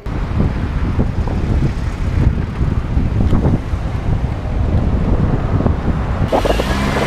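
Wind buffeting the microphone of a cyclist riding along a road, a loud, steady low rumble with ragged gusts.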